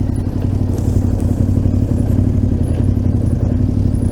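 Twin-cylinder adventure motorcycle engine running at a steady, low engine speed.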